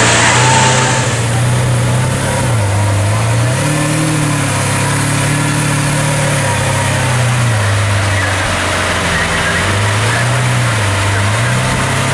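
Lamborghini Aventador LP700-4's V12 with a Capristo exhaust running at low revs, its note rising and falling gently a few times under light throttle.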